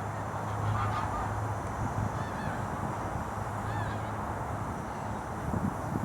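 Geese honking a few short calls over a steady hiss and a low hum.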